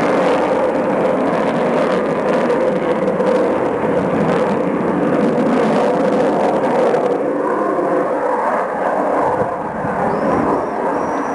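Avro Vulcan bomber's four Olympus turbojet engines running at display power: a loud, steady jet roar. Its higher hiss falls away about seven seconds in.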